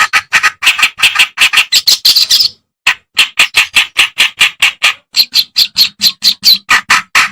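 Kerak basi (reed warbler) singing a loud, fast, harsh chattering song of short repeated notes, about five or six a second, broken by a short pause about two and a half seconds in.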